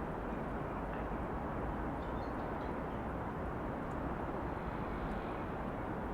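Steady hum of distant city traffic, an even wash of vehicle noise with no single vehicle standing out.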